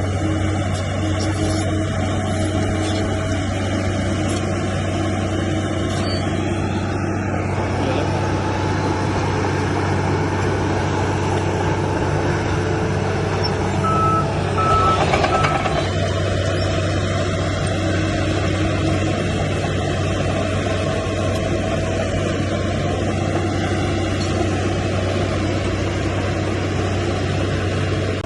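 Heavy diesel earthmoving machinery running steadily under load. About halfway through a reversing alarm sounds three short high beeps, and the engine noise briefly grows louder.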